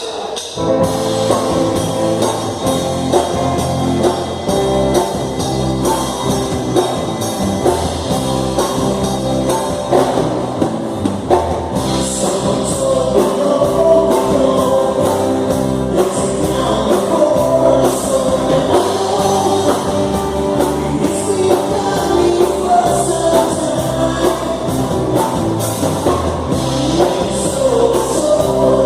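Live rock band kicking in just after the start and playing a mid-tempo song with a steady drum beat. A sung vocal line comes in strongly about twelve seconds in.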